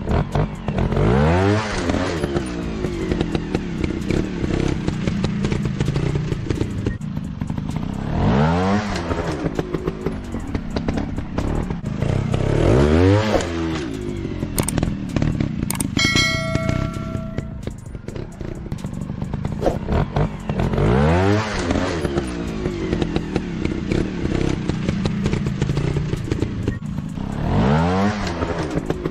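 Motorcycle engine revving up sharply about five times, each rev rising quickly in pitch and falling back, with clattering in between.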